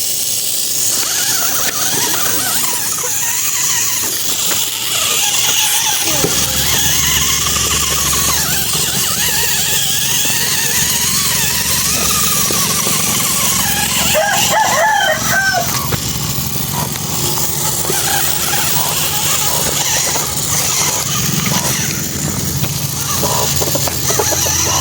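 A small electric motor of an RC toy tractor switches on about six seconds in and runs steadily with a low hum, with high squeaks over a constant hiss.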